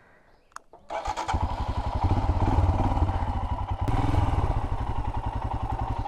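Royal Enfield Himalayan's single-cylinder engine starting about a second in, then running at idle with an even pulsing beat.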